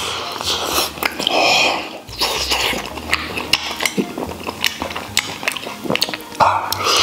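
Close-up eating sounds of a man biting and chewing soft braised pig tail: wet smacking and sticky mouth clicks in quick irregular succession, thickest over the last few seconds.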